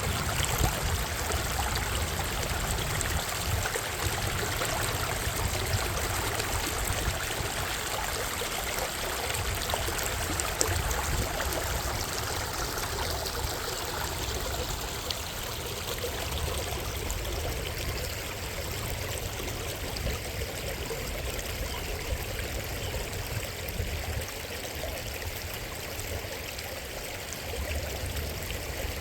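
Water of Minnehaha Creek rushing and splashing steadily, with a low uneven rumble underneath.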